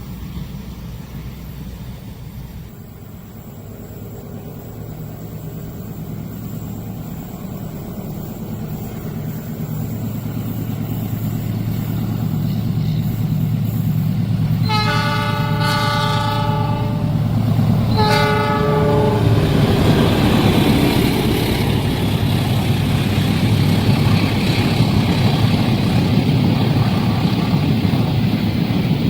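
A diesel train approaching, its rumble growing steadily louder, sounding two horn blasts about halfway through, the first longer than the second; it then passes close by with loud running noise from the engine and wheels on the rails.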